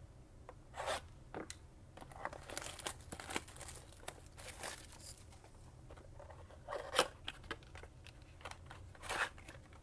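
Plastic shrink-wrap crinkling and tearing as a blaster box of trading cards is unwrapped and opened, with the cardboard box and foil packs rustling; sharper crackles come about a second in, around seven seconds in and just after nine seconds.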